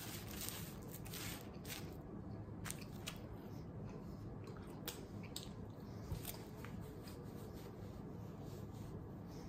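Faint chewing of a mouthful of crispy fried chicken sandwich with crispy onions: wet mouth sounds and small crisp crunches, the crunches most frequent in the first three seconds and thinning out after.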